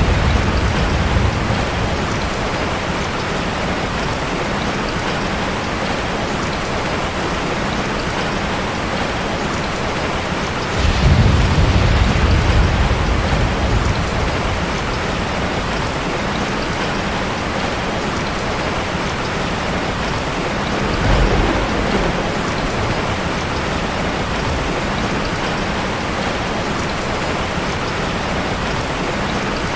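Heavy rain falling steadily in a dense, even hiss. Low rumbles of thunder swell up about a third of the way in and, more briefly, about two thirds in.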